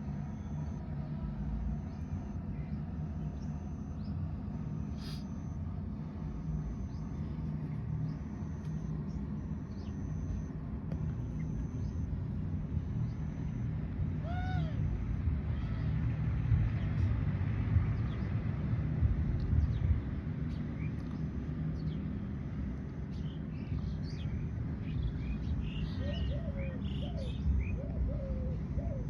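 Birds calling over a steady low rumble: a row of short high notes about once a second, one arched call about halfway through, and a run of short low calls near the end.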